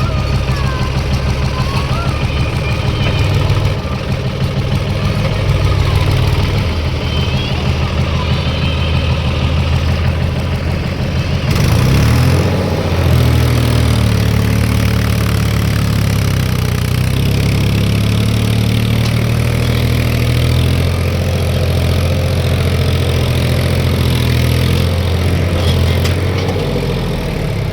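Tractor diesel engine running hard as the tractor strains to get free of mud; about twelve seconds in it revs up higher and holds there.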